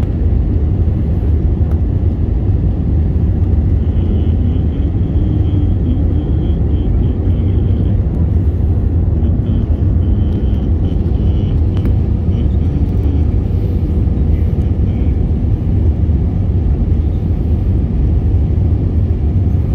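Airliner cabin noise on approach to landing: a steady, loud, low rumble of engines and rushing air heard from inside the passenger cabin.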